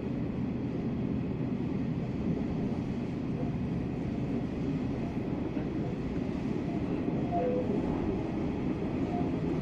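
Hanshin 1000 series electric train running, heard from inside a motor car: a steady rumble of wheels and running gear.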